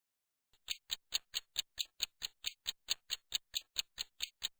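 Clock-style ticking sound effect, a quick even tick about four to five times a second, starting about half a second in: a countdown timer marking the pause for the learner to say the sentence aloud.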